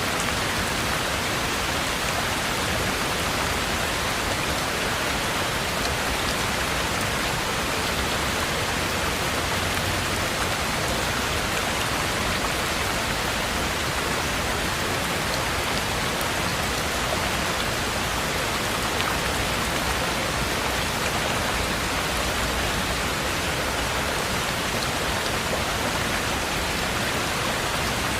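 Heavy rain falling steadily on a cabin roof and surroundings, an even, unbroken hiss with faint individual drop ticks.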